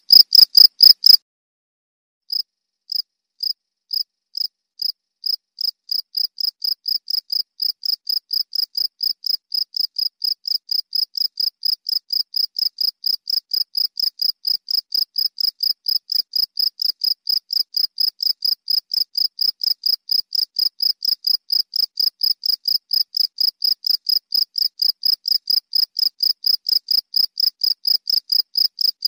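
Cricket chirping: a train of short, high-pitched chirps. It breaks off briefly about a second in, then resumes slowly at about two chirps a second, speeding up and growing louder to about four a second.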